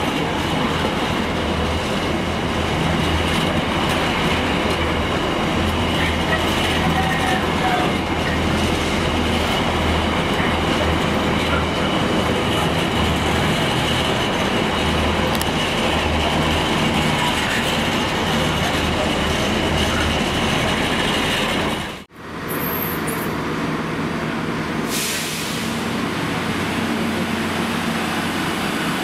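A freight train of empty container flat wagons rolling steadily past on the rails, a continuous rumble and clatter of wheels. About 22 seconds in it cuts off abruptly and the noise of a Transport for Wales passenger train passing close takes over.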